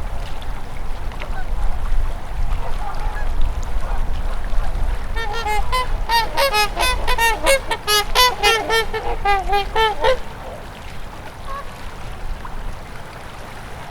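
Geese honking, a run of many quick overlapping calls for about five seconds in the middle, over the steady low rush of a flowing river.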